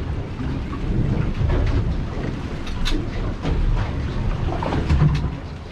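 Rain and gusting wind during a thunderstorm on an open fishing boat, with an uneven low rumble throughout.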